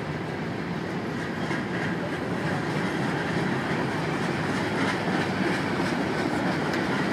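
CSX freight train cars rolling past: a steady rumble of steel wheels on rail, with faint repeated clicks of the wheels over the rail joints, growing slightly louder toward the end.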